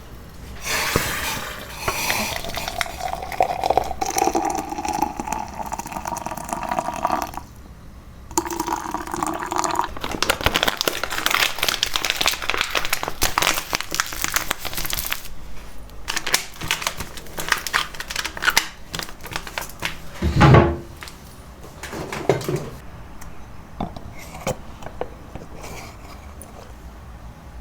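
Kitchen work: water running into a container, its pitch rising as it fills, then a long stretch of dense clinking and rattling of dishes and utensils, with a single low thump about twenty seconds in.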